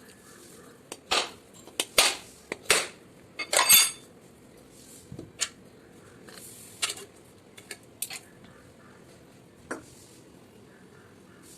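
A series of short, sharp scrapes and knocks of hard objects being handled, at irregular intervals. The loudest cluster comes about one to four seconds in, and fainter ones follow.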